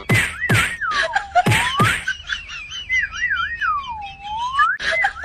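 A whistled tune plays the same short phrase over and over: a quick wavering trill, then a long dip down and back up. Several short sharp pops come in the first two seconds and once near the end.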